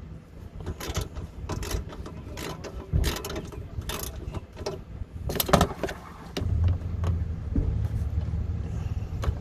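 Hand tools working bolts under a car: irregular metal clicks and knocks, with a steady low rumble coming in a little past six seconds in.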